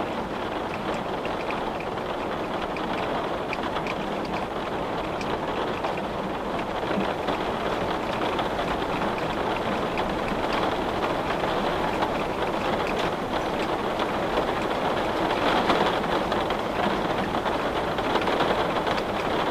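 Steady rain falling: an even hiss dotted with the taps of single drops, getting a little louder in the second half.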